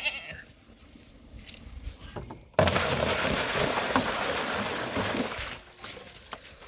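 Water poured or running into an animal's water trough or bucket, starting suddenly a couple of seconds in as a loud steady rush and tailing off after about three seconds.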